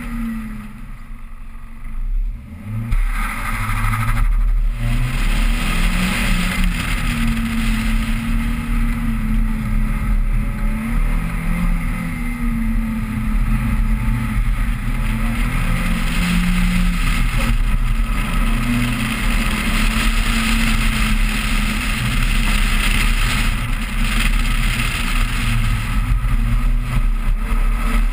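A Toyota Celica GT's 1.8-litre four-cylinder engine revving up and falling back again and again as the car accelerates and slows through an autocross course, with a steady low wind rumble. The engine comes in after about three quieter seconds.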